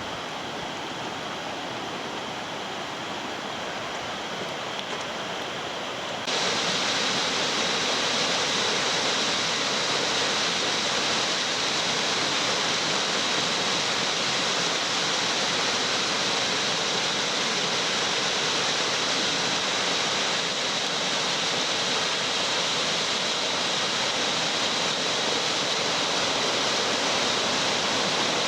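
A stream swollen by typhoon rain, its water rushing steadily. About six seconds in the sound steps up abruptly to a louder, brighter rush, then holds steady.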